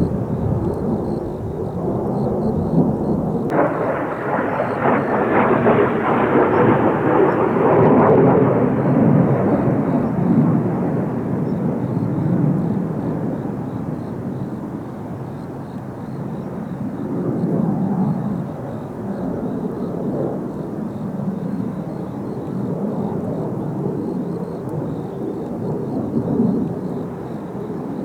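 Jet noise from Kawasaki T-4 jet trainers flying past: a loud rumble that turns sharply brighter about three and a half seconds in, is loudest around eight seconds, then fades to a lower rumble that swells again a couple of times.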